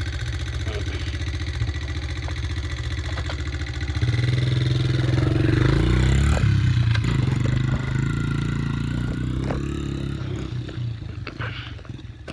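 Dirt bike engine running steadily, then revving up louder about four seconds in, with the pitch rising and falling, and fading toward the end.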